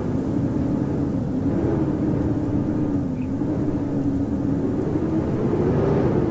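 Howling blizzard wind: a steady rushing noise with a low moaning howl that slowly rises and falls in pitch.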